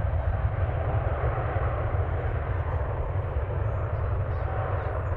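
Jet airliner engines, a steady rushing noise with a deep rumble underneath, holding level throughout.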